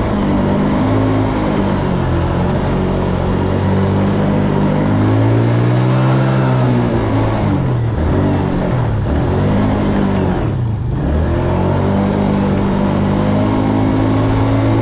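Four-wheeler (ATV) engine running, recorded close up from a camera mounted on the machine, its pitch rising and falling several times as it speeds up and slows down.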